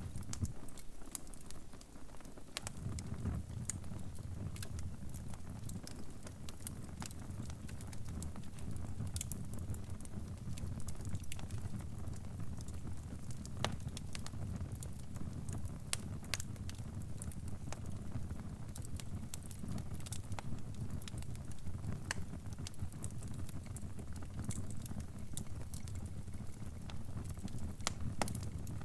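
Crackling wood fire: a low, steady rumble of flames with irregular sharp pops and crackles scattered throughout. The low rumble drops out briefly about a second in, then returns.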